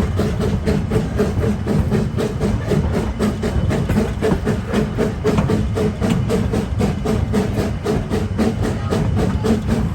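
Two-foot-gauge train running, a steady rumble with a rapid, even clatter of wheels on rail joints, with music playing alongside.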